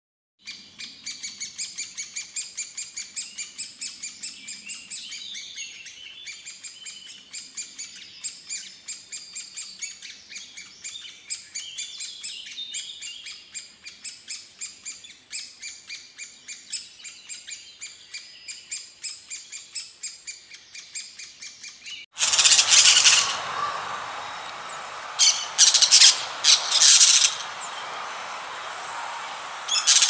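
High bird calls chirping rapidly and continuously, several a second. About 22 seconds in they cut to louder, harsher squawking calls that come in a few short bouts.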